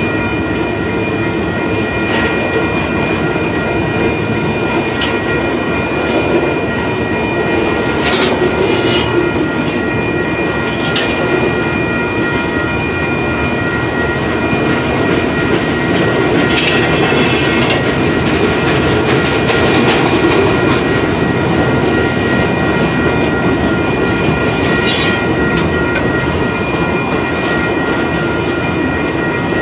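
Loaded boxcars of a freight train rolling steadily past, a continuous rumble of steel wheels on rail with scattered clicks and clanks. A steady high-pitched squealing tone rides over it, fainter midway through.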